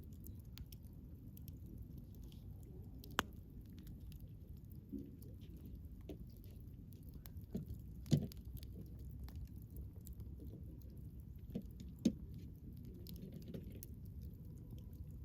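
Wood bonfire crackling: scattered small snaps over a low steady rumble, with three sharper pops, about three seconds in, near the middle, and about twelve seconds in.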